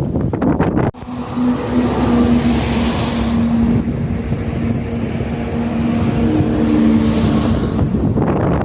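An engine humming steadily over a rush of noise. It comes in suddenly about a second in and stops shortly before the end, with wind on the microphone on either side.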